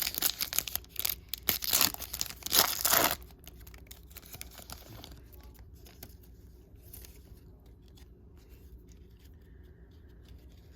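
The wrapper of a 2021 Panini Prizm football trading card pack is torn open and crinkled, loudly for about three seconds. Then comes faint rustling as the cards are handled.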